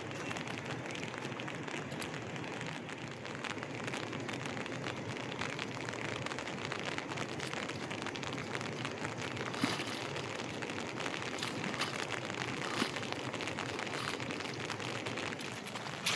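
Heavy rain falling steadily: a constant hiss of drops with many fine taps, and a couple of louder knocks about ten and thirteen seconds in.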